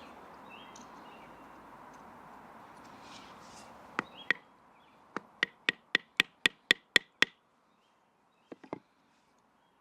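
Batoning wood with a Swiss Army knife: a wooden baton knocking sharply on the blade. Two blows come about four seconds in, then a quick even run of about nine, roughly four a second, then three light taps near the end.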